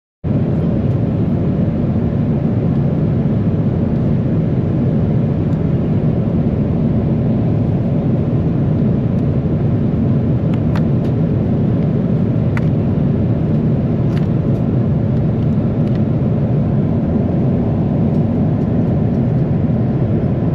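Steady low cabin noise inside a Boeing 777-300ER airliner, with a few faint clicks near the middle.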